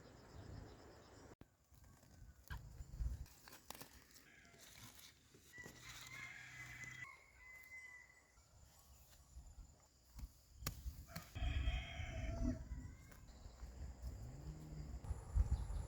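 A rooster crowing, two long calls: one about five and a half seconds in and another at about eleven seconds, with a few light clicks between them.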